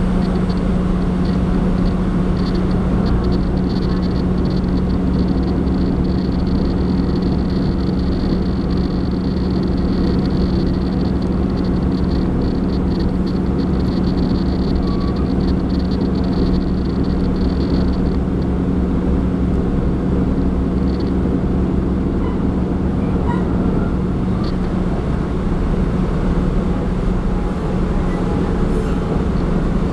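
Taiwan Railway diesel railcar running along the track, heard from inside the carriage: a steady low engine drone under continuous running noise. A faint high-pitched whine sits over it from about a second in until about 18 seconds in.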